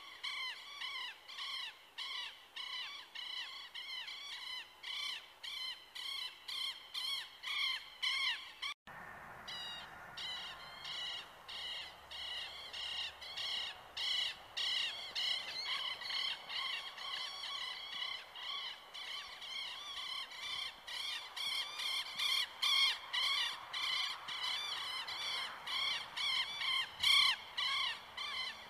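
A bird calling the same short, arched note over and over, about two to three calls a second, with a faint rush of river water underneath. The calling breaks off for a moment about nine seconds in, then resumes.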